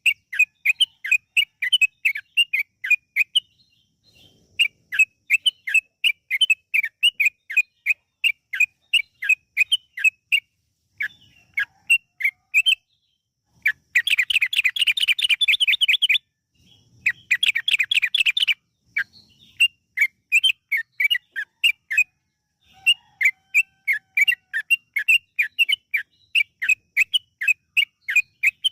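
Yellow-vented bulbul (trucukan) singing: strings of short bubbly notes, several a second, broken by brief pauses. Around the middle come two fast rolling runs, the long "ropel" trills.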